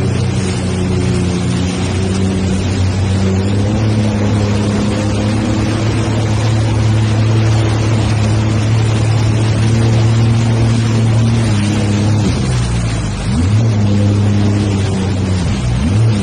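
Jet ski engine running at a steady speed over a rush of noise. The revs dip and pick up again about three-quarters of the way through, and once more near the end.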